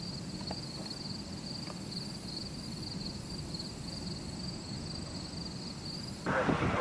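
Insects trilling steadily in a high, fast-pulsing chorus over a low outdoor rumble. Near the end it cuts off suddenly to louder wind buffeting the microphone.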